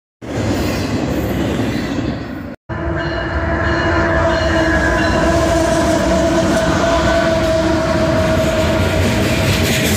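Intermodal freight train rolling past close by, wheels rumbling and clacking on the rails. The sound cuts out briefly at the start and again about two and a half seconds in. After that a steady tone sits over the rumble as a BNSF diesel locomotive passes.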